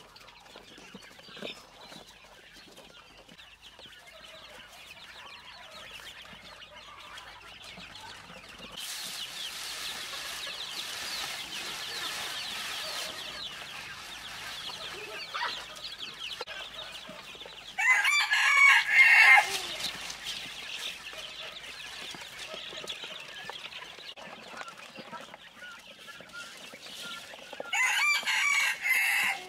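Chickens clucking softly while a rooster crows twice in the second half, each crow a loud call of about a second and a half, some ten seconds apart.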